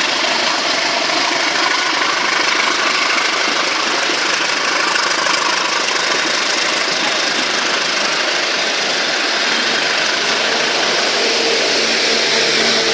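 Train running: a steady, loud rush of noise that does not let up, with a faint low hum coming in near the end.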